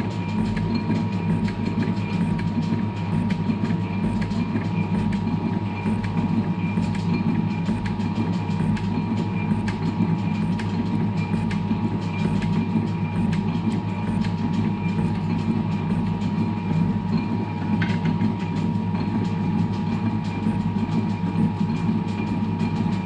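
Metalworking machine tool running steadily with a thin constant whine over a low hum.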